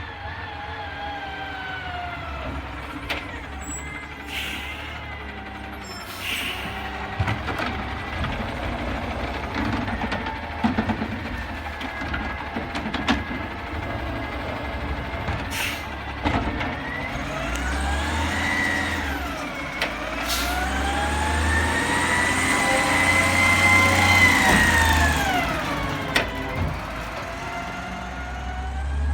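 Garbage truck's diesel engine running with a low rumble, revving up briefly and then up again, held high for several seconds before dropping back. There are short hisses of air and a few sharp clanks in the first part.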